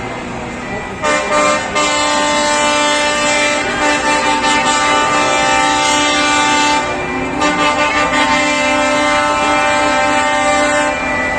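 Truck horns sounding in two long blasts, several tones at once: the first from about a second in, a brief break just before the middle, then a second blast that stops shortly before the end.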